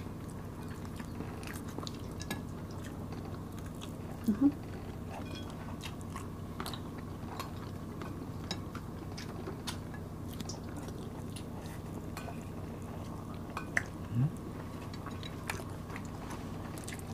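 Close-up eating sounds of sticky rice (bringhe) being eaten by hand: soft chewing with small clicks and lip smacks throughout, over a steady low hum. Twice, about four and fourteen seconds in, a brief hum from a voice rises in pitch.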